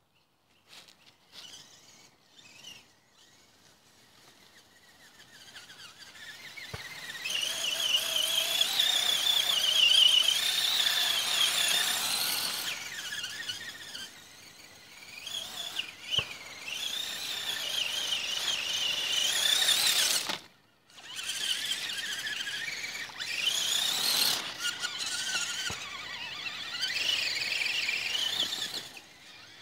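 Radio-controlled truck's motor whining at high pitch, the pitch wavering up and down with the throttle. The whine cuts off suddenly once, about two-thirds of the way in, then picks up again.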